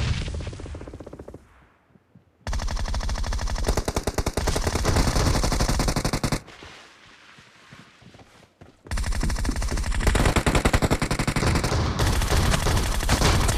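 Video-game automatic gunfire: a loud single shot that dies away, then two long bursts of rapid automatic fire, each about four seconds long, with a short pause between them.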